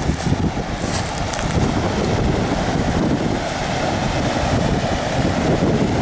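Strong gusty wind buffeting the microphone, over the rush of a fast-flowing river swollen by heavy rain.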